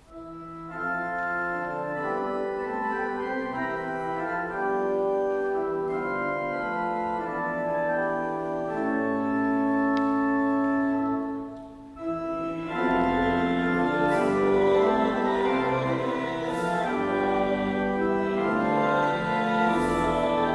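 Church organ playing the introduction of a psalm refrain in sustained chords. After a brief break about twelve seconds in, the music comes back fuller, with pedal bass, as the congregation joins in singing the refrain.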